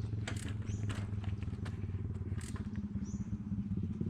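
An engine running steadily at a low, even hum, with scattered sharp clicks and a few short high chirps over it.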